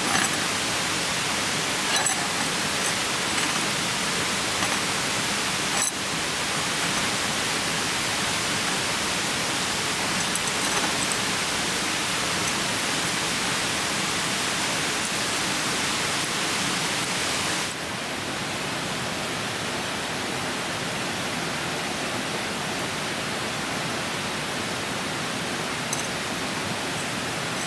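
Steady rushing of a clear mountain stream, with a few faint sharp ticks here and there. The level drops a little twice, about six seconds in and again past the middle.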